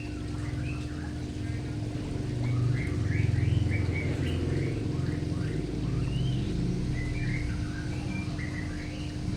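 Small birds chirping in quick, short, repeated notes, over a steady low hum and rumble.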